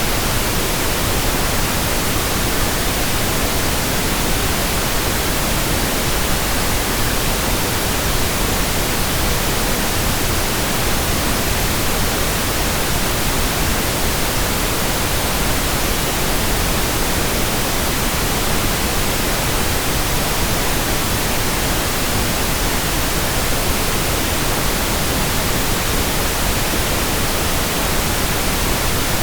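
Steady pink noise: an even, unchanging hiss spread across all pitches, evenly spaced per octave.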